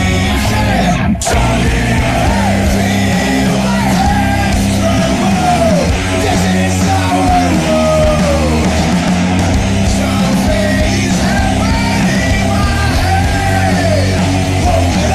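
Heavy rock band recording: loud distorted guitars, bass and drums with shouted vocals, and a very short break about a second in.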